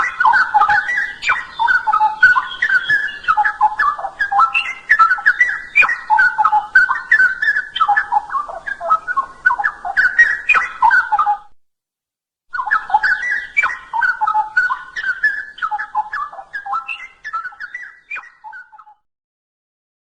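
Straw-headed bulbul singing rich, rapid whistled phrases. It breaks off for about a second partway through, resumes, and stops about a second before the end.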